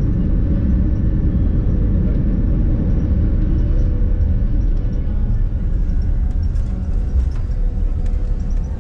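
Steady low rumble of a vehicle in motion, heard from inside, with a faint steady hum above it.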